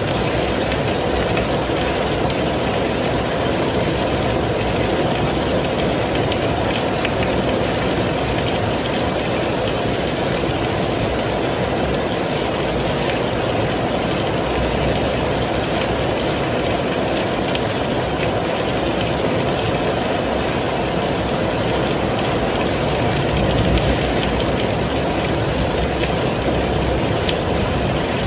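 Heavy rain falling steadily, an even, unbroken hiss with no pauses or changes.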